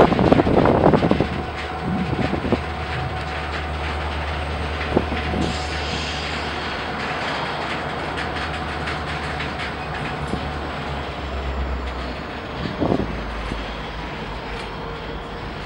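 Diesel locomotive engine running with a steady low rumble while switching rail cars, with scattered clanks and knocks from the cars. There are louder rough bursts in the first second, and the engine note changes about twelve seconds in.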